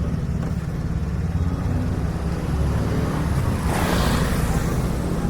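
Road traffic: a steady low rumble, with a vehicle passing by close about four seconds in.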